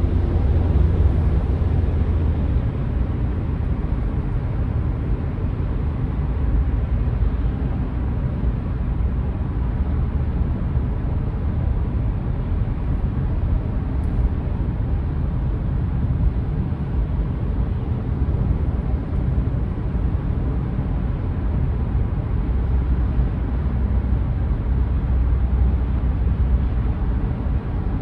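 Steady low rumble of a car driving in slow traffic: engine and road noise, a little heavier near the start and again near the end.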